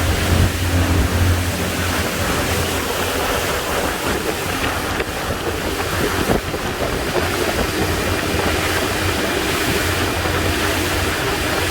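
Twin Detroit Diesel 6V53 two-stroke V6 diesels running steadily at cruise, about 2800 rpm, with the boat on plane, a low steady hum under heavy wind noise on the microphone and the rush of water past the hull.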